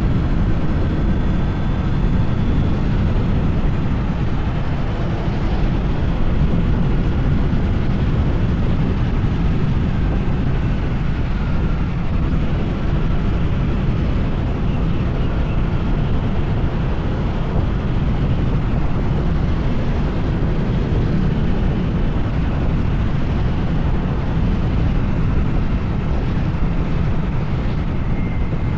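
Honda PCX 160 scooter's single-cylinder engine running under way at a steady pace, heard as a continuous low rumble mixed with rushing air.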